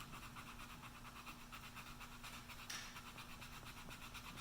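Sandpaper rubbed by hand over the finish of a wooden gunstock in quick, even back-and-forth strokes: a faint rhythmic scratching, several strokes a second, as the finish overrun is sanded away.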